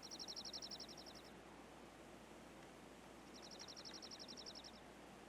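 Two faint, high, rapid trills from a small songbird, each about a second and a half long and a couple of seconds apart, over a quiet woodland background hiss.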